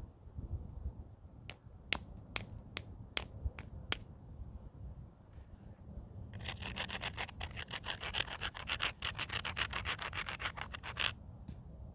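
Stone knapping: a handful of sharp clicks of stone on stone, then about five seconds of fast back-and-forth scraping of stone against the edge of the piece being knapped, around eight strokes a second.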